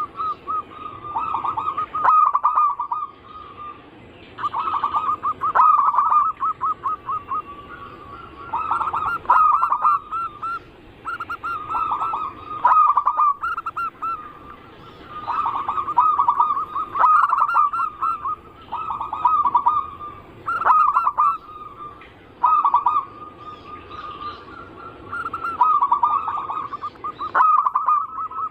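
Zebra doves (perkutut) cooing: short rippling, trilled coo phrases about a second long, repeating one after another every second or two, with more than one bird's phrases overlapping at times.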